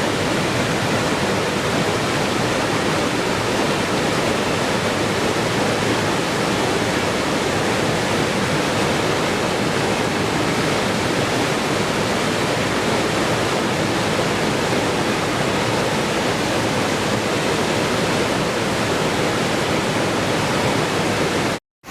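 Steady rushing water, a continuous even hiss with most of its weight in the lower middle range. It cuts out to silence for a fraction of a second just at the end.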